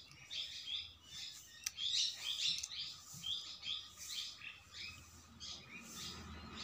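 Small birds chirping: a rapid run of short, high chirps, several a second.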